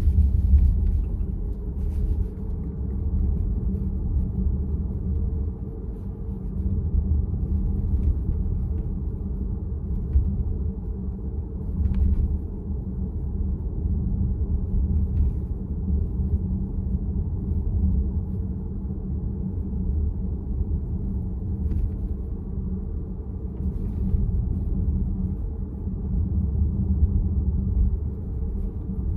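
Steady low road and tyre rumble inside a VW ID.4's cabin while driving, with no engine note, and a few faint ticks.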